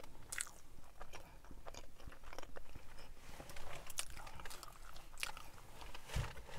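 A person chewing a mouthful of chorizo chicken burrito close to the microphone, with irregular soft clicks and smacks of the mouth.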